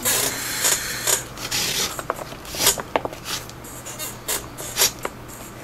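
Leather lace rubbing as it is drawn through the lacing holes of a catcher's mitt: a long rasping pull over the first two seconds, then a series of shorter scrapes and light clicks.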